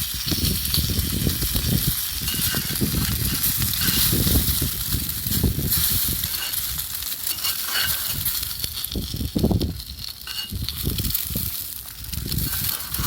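Meat sizzling on a grill over a campfire: a steady frying hiss, with irregular low rumbles and knocks underneath.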